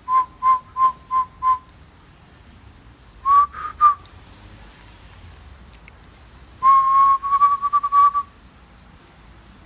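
A person whistling short, clear notes at one high pitch: five quick even notes, then three slightly rising ones, then a longer run of rapid notes a few seconds later.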